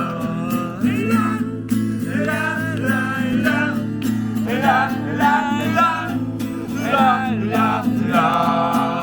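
Acoustic guitar strummed under a voice singing a wordless melody.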